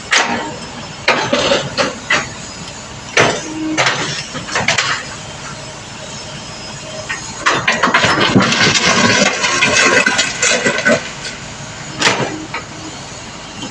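Kobelco SK210 LC excavator at work: separate sharp metal clanks and knocks, with a louder stretch of continuous clatter a little after the middle.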